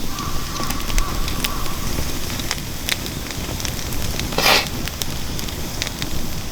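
Wood fire burning hard in a fire pit: a steady low rumble of flames with scattered crackles and pops, and one louder, brief hissing flare about four and a half seconds in.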